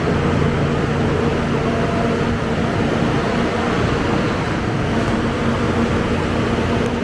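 Scania K270UB city bus idling: a steady engine hum with no change in speed.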